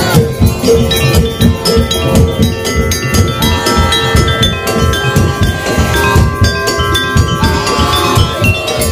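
Daul Madura (tongtong) music: a Madurese street percussion ensemble playing a fast, dense drum rhythm with ringing bell-like metal percussion. A melody line holds long high notes through the middle.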